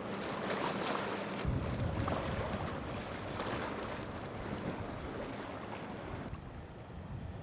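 A boat's engine running through the inlet over surf and wind on the microphone. A steady low hum stops about a second and a half in, and the noise thins toward the end.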